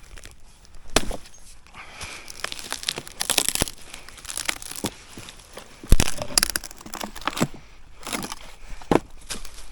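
Irregular crinkling and rustling with scattered sharp knocks, the loudest about six seconds in, like something being handled close to the microphone.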